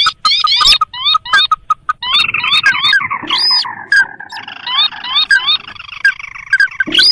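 Sintar (ruddy-breasted crake) lure calls: a rapid run of short, rising notes from several overlapping birds, broken by sharp clicks.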